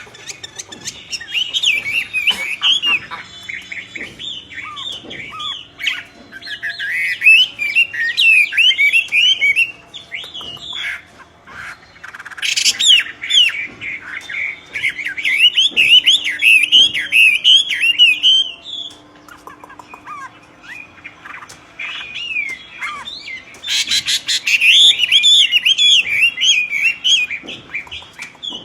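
Myna bird singing loudly in bouts of quick, wavering chirps and squawks, with short pauses between the bouts.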